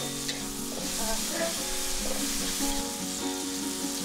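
Sliced garlic, shallots, chilli and tomato sizzling steadily in a hot oiled wok while a metal spatula stirs them, with soft background music.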